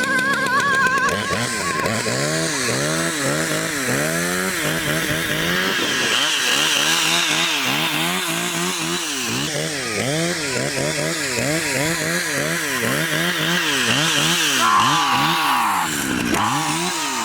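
Two-stroke chainsaw engine revved up and down over and over, its pitch rising and falling about twice a second.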